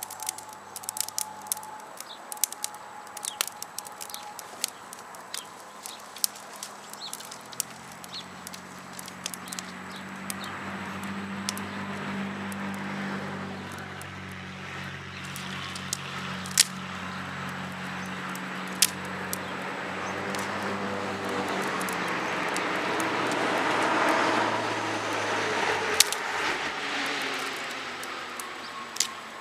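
Burning wood crackling with sharp pops throughout. About a quarter of the way in, a motor vehicle's engine hum comes in and builds, with tyre noise loudest near the end, then fades as it passes.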